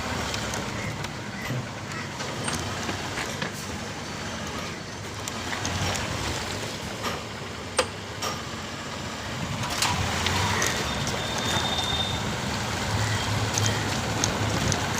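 Road traffic and riding noise from a moving motorcycle: a steady wash of noise with scattered sharp clicks, and a brief high tone about eleven seconds in.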